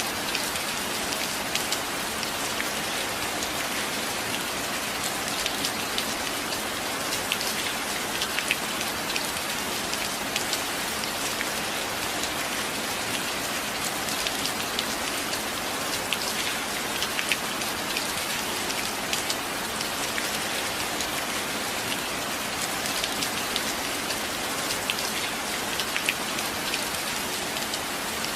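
Steady rain falling, with many small sharp drop ticks scattered through it.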